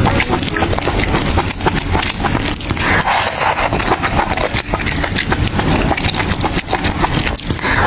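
Close-miked chewing and crunching of food, with a dense run of quick crackles and clicks.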